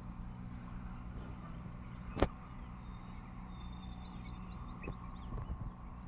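Small birds chirping in a quick run of short high notes over a steady low hum, with one sharp click about two seconds in.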